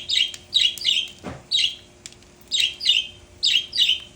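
Pet budgerigars chirping: short, sharp, high chirps, mostly in quick pairs, about ten of them.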